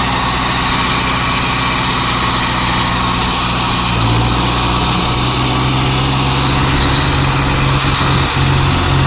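Diesel tractor engines running steadily under load as two tractors pull against each other in a tug-of-war. The engine note steps up slightly about four seconds in.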